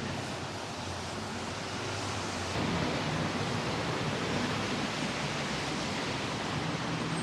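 Steady hiss of rain and outdoor air noise in a city street. About two and a half seconds in it grows a little louder as a low hum joins in.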